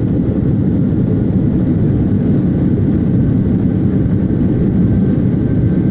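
Airliner landing: a loud, steady low rumble that holds even throughout.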